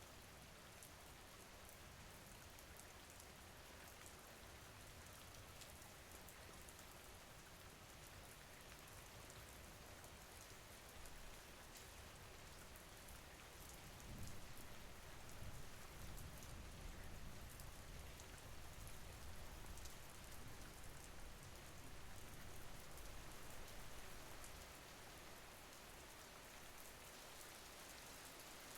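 Faint, steady rain with a fine patter of drops. A low rumble swells in about halfway through and fades a few seconds before the end.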